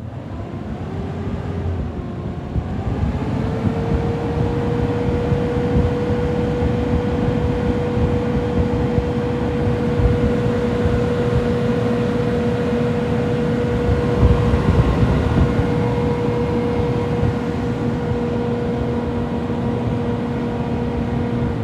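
Mitsubishi 3.0-litre V6 engine brought up from idle over the first few seconds, then held at a steady raised speed. A steady pitched note rides over the running noise.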